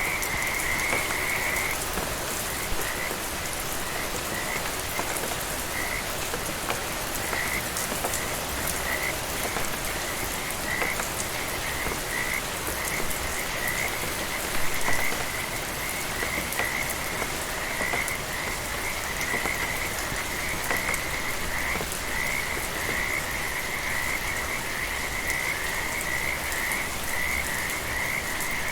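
Frogs calling in short, fast trills over a steady hiss of rain. A long unbroken trill at the start breaks into separate short calls, which come closer together toward the end.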